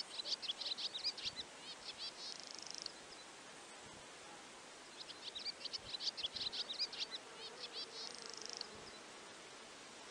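A songbird singing two long phrases of quick, high chirping notes, each ending in a fast trill, over a faint steady outdoor hiss.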